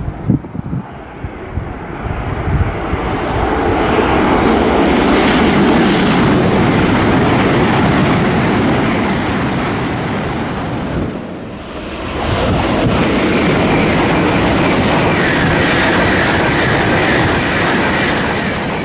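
A Shinkansen bullet train running through the station at speed: a loud rushing noise builds over the first few seconds and holds. It drops briefly about eleven seconds in, comes back with a faint high whine, and dies away near the end.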